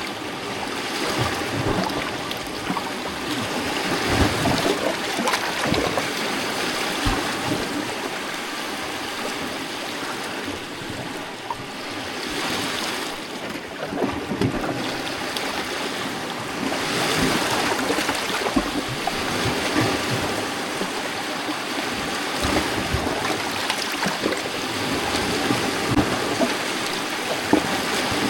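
Small lake waves lapping and splashing against rocks, a continuous wash of water with many small irregular splashes and gentle swells in level.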